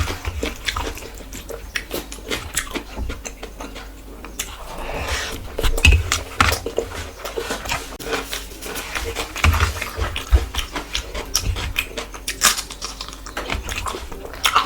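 Close-miked eating sounds: chewing and wet mouth smacking, many quick irregular clicks, as a person eats rice and curry.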